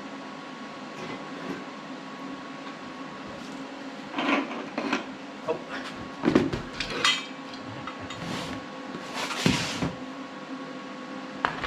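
Metal clanking and knocking from tools and steel parts being handled, a run of sharp clanks through the middle, over a steady electrical hum.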